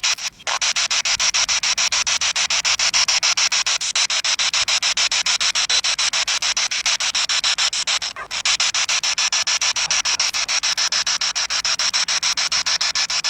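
Spirit box sweeping radio frequencies: a steady hiss of static chopped into rapid, even pulses, with brief dropouts about half a second in and around eight seconds in.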